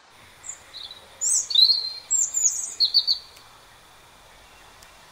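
A small bird chirping: a quick string of high, warbling calls over about three seconds, then only a faint steady hiss.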